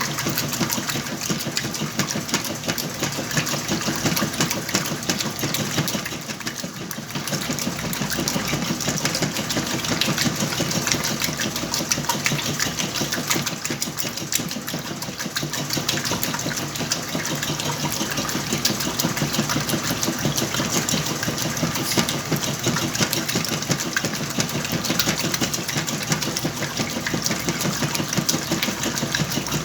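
Whirlpool washing machine running with a load of blankets: a steady mechanical hum with a dense, rapid clatter that dips briefly about six seconds in.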